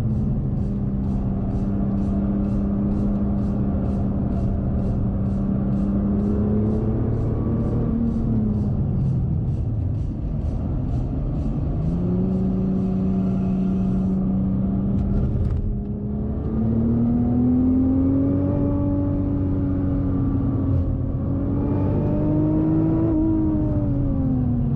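Nissan GT-R R35's twin-turbo V6 heard from inside the cabin while lapping a circuit, with tyre and road noise underneath. The engine note holds steady, climbs and drops around a third of the way in, holds again, then rises gradually and falls away near the end. Faint, regular high ticks, about two or three a second, run through the first half.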